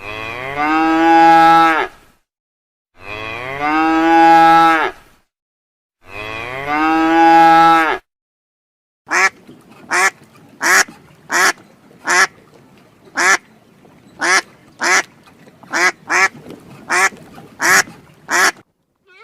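A cow mooing three times, each moo about two seconds long. Then a duck quacking, a run of about fifteen short, sharp quacks.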